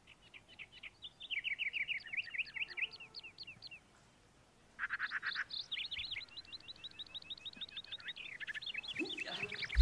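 Birds chirping: quick runs of short, high, down-slurred notes, several a second, in two bouts with a pause of about a second near the middle.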